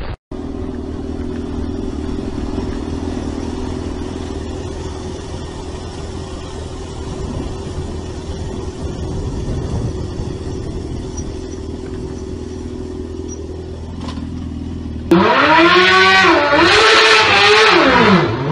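Motorcycle engine running steadily. About fifteen seconds in it gives way to louder revving that rises and falls in pitch several times.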